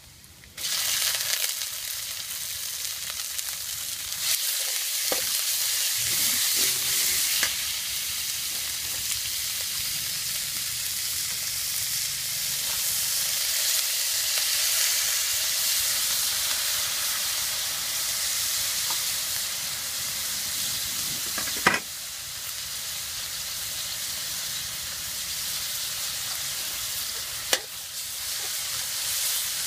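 Raw chicken pieces hitting hot oil in a steel wok, setting off a loud, steady sizzle that starts suddenly about half a second in, then stir-fried with a metal wok spatula. Twice late on, the spatula clicks sharply against the wok.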